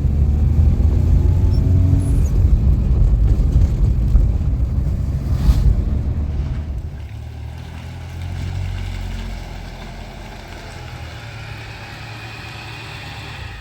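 Car engine running as the car drives, a steady low rumble that drops to a quieter level about halfway through, with one sharp knock near the middle.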